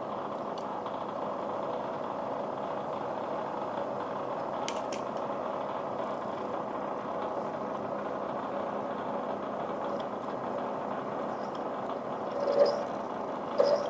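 A metalworking machine runs steadily with an even mechanical hum, during centre drilling. There are a few sharp clicks about five seconds in, and two short louder knocks near the end.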